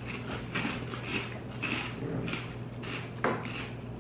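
Close-up chewing of crunchy flake-and-cluster cereal in milk, a crackly crunch about every half second. A single sharp clink about three seconds in is the loudest moment.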